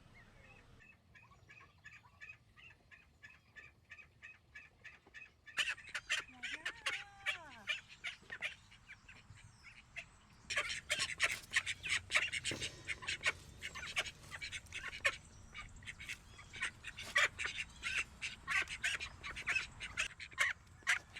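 Poultry quacking in quick runs of calls. A quieter, evenly repeated series comes first, then louder and denser calling from about five seconds in, with a short lull partway through.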